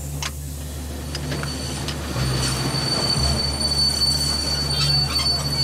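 Passenger train slowing to a halt: a steady low rumble from the train, joined about two seconds in by a steady high squeal from the wheels on the rails. The train is stopping because its brake fluid has run out.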